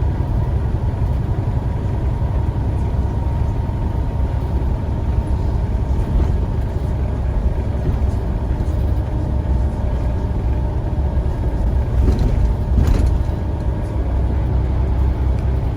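Scania CN94UA bus heard from on board: a steady low engine and road rumble with a faint steady whine over it, and a short clatter about twelve seconds in.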